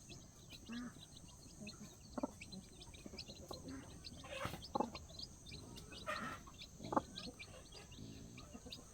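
Chickens clucking in short calls, with small birds chirping rapidly throughout.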